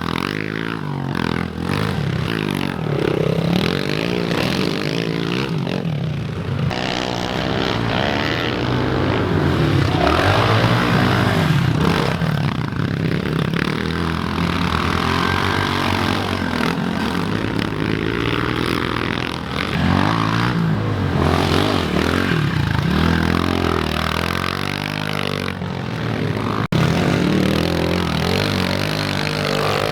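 Pit bike engines revving up and down as the bikes ride the dirt track, the pitch repeatedly rising and falling with throttle and gear changes. There is a sharp click near the end.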